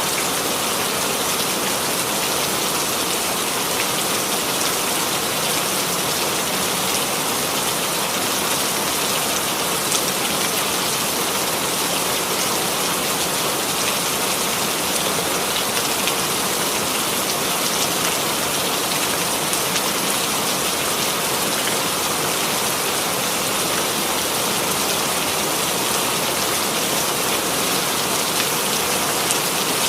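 Steady rain falling, with a constant hiss of rain on a surface and faint scattered drop ticks.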